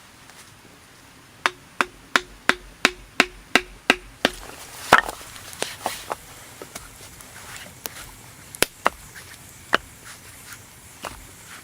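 Blows of a hand tool on wood: a quick run of about nine even strikes, each with a short ringing note, then slower, irregular single strikes.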